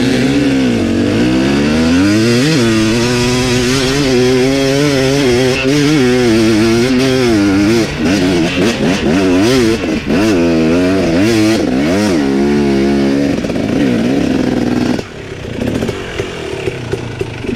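Dirt bike engine revving hard on a hill climb, its pitch rising and falling again and again with throttle and gear changes, with a run of quick throttle blips in the middle. About fifteen seconds in it falls suddenly much quieter, settling to a low running note.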